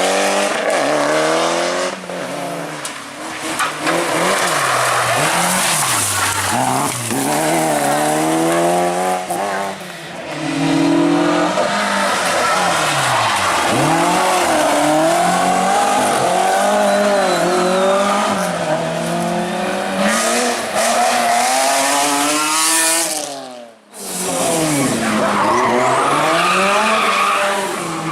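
Rally cars at full throttle, engines revving up and dropping back again and again through gear changes as they pass. The sound breaks off briefly near the end, then another car is heard revving.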